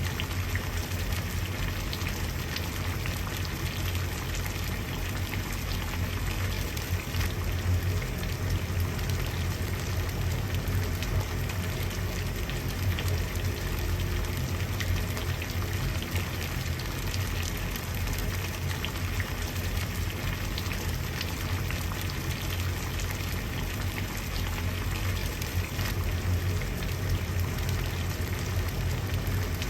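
Water at a steady boil, a continuous dense bubbling made of many small pops, with a low rumble beneath.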